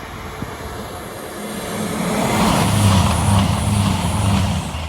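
Class 222 Meridian diesel multiple unit passing, its underfloor diesel engines humming low under a rush of wheel and rail noise. The sound grows louder from about a second and a half in, is loudest for the last couple of seconds, then drops away abruptly at the end.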